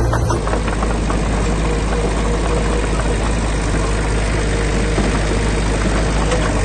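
Heavy construction machine's diesel engine running steadily.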